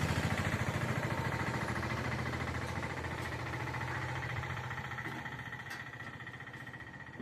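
A motor vehicle's engine running with a low, pulsing rumble that grows gradually fainter.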